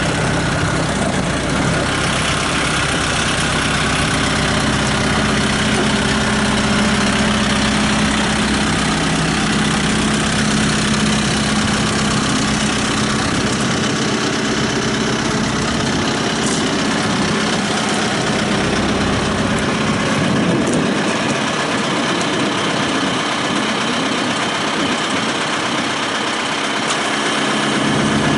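Kubota M7060 tractor's four-cylinder diesel engine running steadily at idle.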